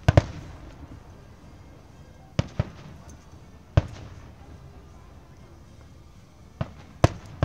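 Aerial fireworks shells bursting overhead: about seven sharp bangs, mostly in quick pairs, at the start, around a third of the way in and again near the end, the first pair trailing off in an echo.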